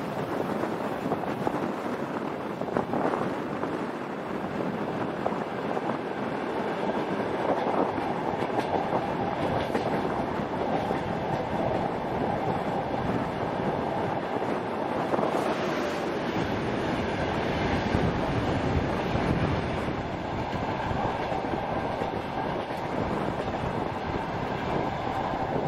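Passenger train running along curving track, heard from an open carriage window: a steady rumble and clatter of wheels on the rails. The rumble turns deeper and heavier about two-thirds of the way through.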